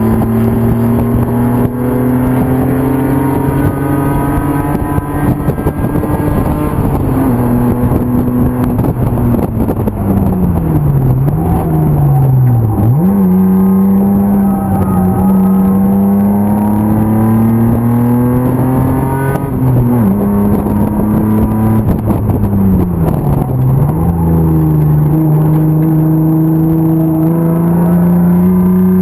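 BMW M50 straight-six race car engine under hard driving: long climbs in pitch as it pulls up through the revs, broken by falls in pitch as the throttle comes off for braking and downshifts, once about ten to thirteen seconds in and again near twenty-three seconds, with a sudden drop about twenty seconds in.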